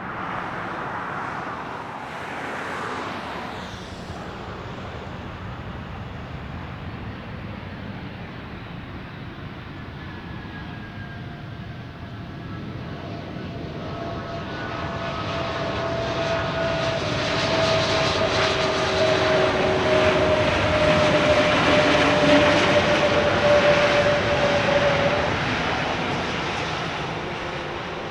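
Jet airliner passing by the airport. Its engine noise swells over about ten seconds to a peak a little past the middle, with a whine that falls slightly in pitch, then fades away.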